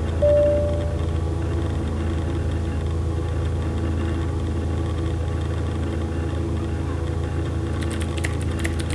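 Steady low electrical hum with a short single-pitched beep about a quarter second in and a few sharp clicks near the end.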